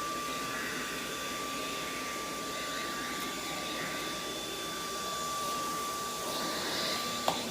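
Cordless stick vacuum cleaner running steadily: an even motor whine over airflow noise, with a sharp click near the end.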